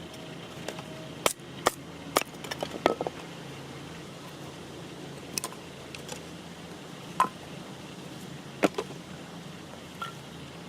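Irregular sharp clicks and light knocks, bunched together in the first few seconds and then single ones every second or two, over a steady low hum.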